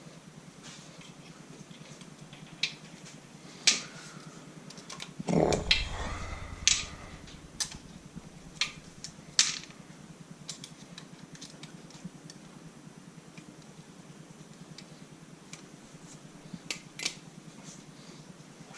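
Scattered metal clicks and taps from tools and parts while seized LS hydraulic roller lifters are being worked loose, with a louder clatter and metallic ringing about five seconds in.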